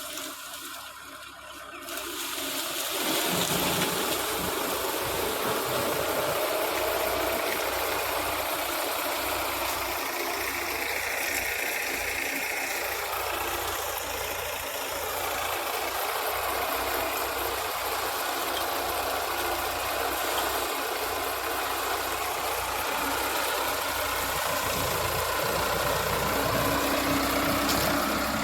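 Sugarcane harvester engine running steadily. It is quieter for the first two seconds, then grows louder and holds even.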